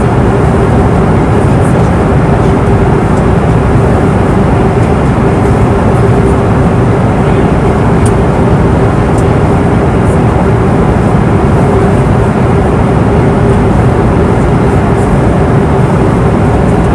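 Airliner cabin noise in cruise flight: a steady, even rush of engine and airflow noise with a constant hum underneath.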